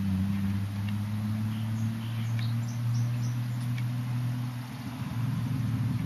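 Toyota 1JZ-GTE turbocharged inline-six running through a Greddy titanium exhaust, holding a steady, even note. About five seconds in it drops back to a rougher, choppier idle.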